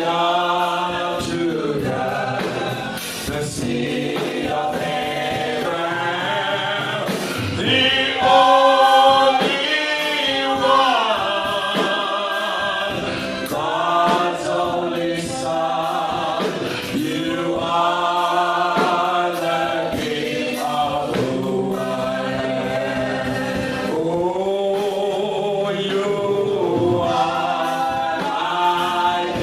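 A church worship team's voices singing a slow gospel worship song together, with long held notes.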